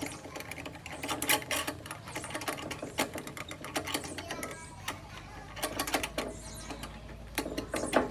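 Irregular metallic clicking and knocking of hand work on a machine, over a steady low hum.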